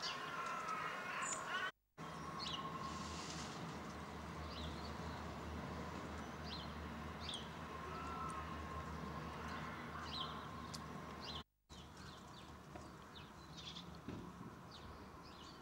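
Wild birds outdoors giving short, high chirps and calls, scattered throughout, over a steady low hum. The sound cuts out briefly twice.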